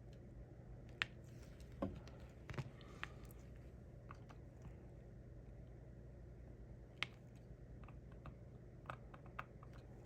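Scattered small clicks and taps of a diamond painting pen setting resin drills onto the sticky canvas, a cluster of them about a second in and a few more later, over a faint low hum.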